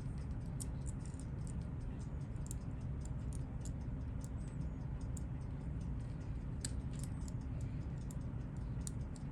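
Faint, irregular small clicks and scrapes of a metal hand tool picking an old gasket off a vintage Seiko watch case, over a steady low hum.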